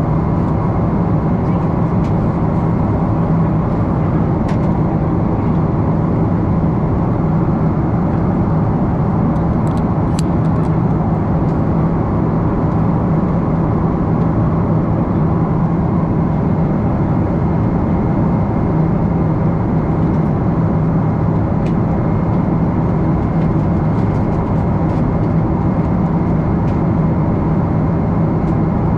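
Boeing 777-300 passenger cabin in flight: a steady rush of airflow and engine noise with a low, even drone, unchanging throughout.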